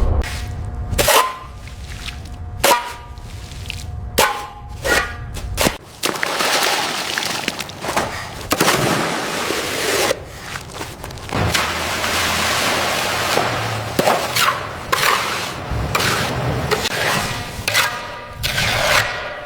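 Sharp knocks, each with a short metallic ring, for the first few seconds. Then several seconds of steady hissing or scraping noise, followed by more ringing knocks near the end.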